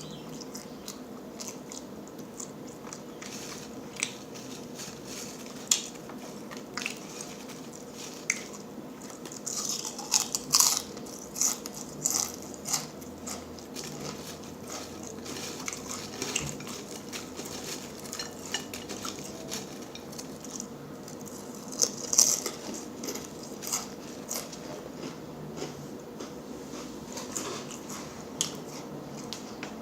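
Close-miked eating: chewing and crunching of potato chips and a pulled pork sandwich, with irregular sharp crunches and mouth clicks that come thickest about ten seconds in and again around twenty-two seconds.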